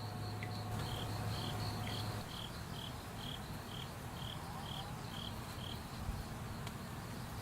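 Crickets chirping in an even rhythm of about two chirps a second. One higher-pitched caller stops about a second in and a slightly lower one carries on until about six seconds in, over a low steady hum that cuts out about two seconds in.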